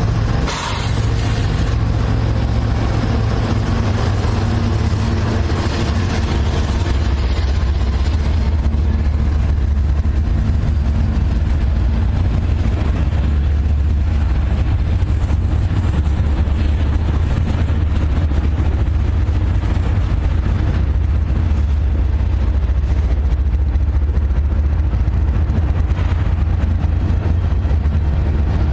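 Diesel train running past with a steady low engine rumble.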